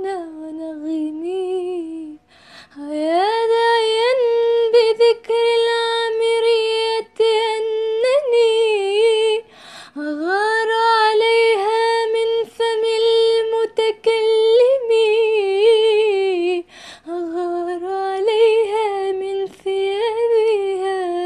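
A woman singing solo in Arabic classical style, stretching long held, ornamented notes with vibrato and breaking briefly for breath three times.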